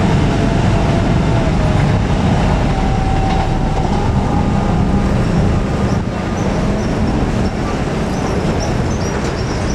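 Train passing close by: a loud, steady rumble of wheels on rail, with faint thin wheel squeal.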